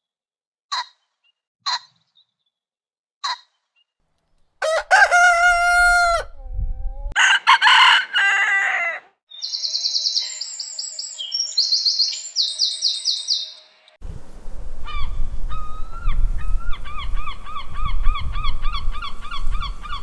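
A series of different bird calls played one after another: four short sharp chirps, then a long drawn-out call lasting about two seconds, then high rapid warbling song and a run of quick repeated notes.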